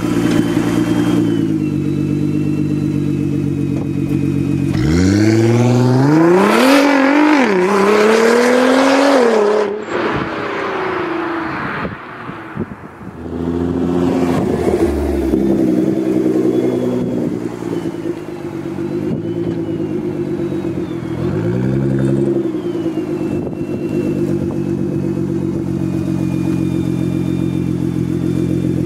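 Nissan GT-R R35's twin-turbo V6 through a custom 4-inch Y pipe and Armytrix valved cat-back exhaust, idling, then revved in a run of blips rising and falling about five seconds in before settling back to idle. A single short blip comes later, then the engine idles on.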